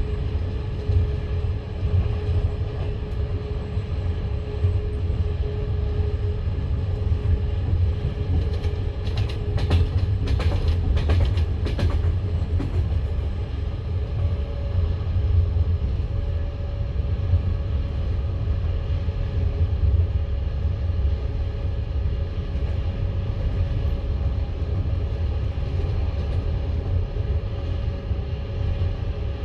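Russian passenger train carriage rolling along the track: a steady low rumble of wheels on rails, with a quick run of sharp clicks from the wheels about a third of the way in. A faint steady hum steps up in pitch about halfway through.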